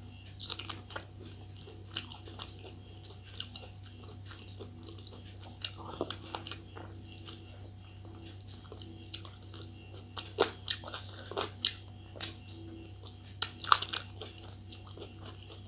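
A person biting and chewing spicy chicken wing close to the microphone, with scattered wet clicks and smacks. The loudest cluster of bites comes near the end.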